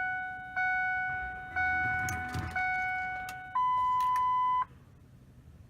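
Ford F250 dashboard warning chime dinging about once a second with the key on while the glow plugs warm up, then one steady higher beep for about a second before it stops. A few faint key clicks and rustles in the middle.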